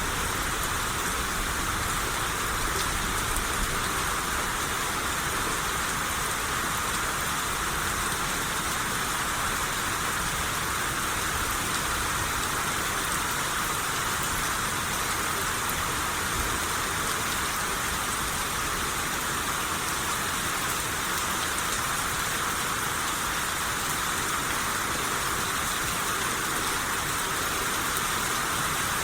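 Steady rain shower, an even hiss of rain falling on surfaces.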